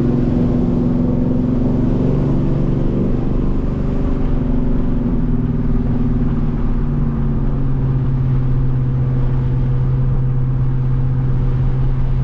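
Freshly rebuilt GMC Sierra 5.3-litre LS V8 running through long-tube headers and a Flowmaster American Thunder exhaust, idling steadily. Its pitch steps slightly lower about seven seconds in.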